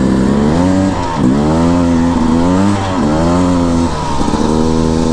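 2021 Beta 300RR two-stroke dirt bike engine accelerating under the rider, its pitch climbing and dropping sharply at gear changes about a second in, near three seconds and again near four seconds, over steady wind hiss.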